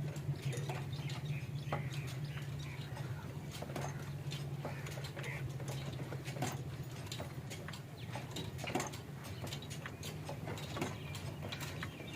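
Old black stationary diesel engine running steadily: a low, even hum with a scatter of sharp clicks and ticks on top.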